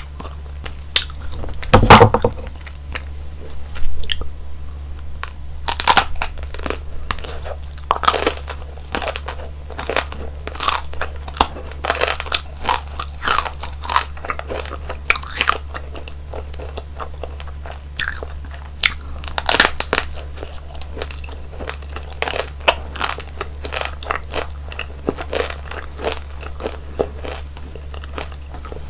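Close-miked crunchy bites and chewing of frozen roll-up jelly with ice cream: a handful of loud crunching bites, the loudest about two seconds in and again near twenty seconds, with quicker, smaller crackling chews between them.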